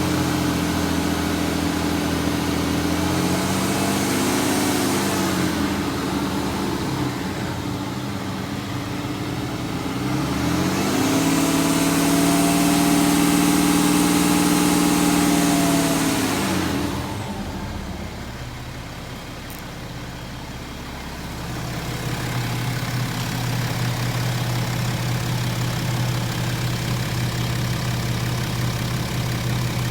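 BMW N57D30 3.0-litre straight-six diesel engine held at raised revs, dipping briefly, then revved up again and held for about five seconds before dropping back to a steady idle a little past halfway. The owner hears a slight "tuk tuk tuk" tapping when the revs are held, which he suspects is abnormal but allows may be the normal sound of this engine.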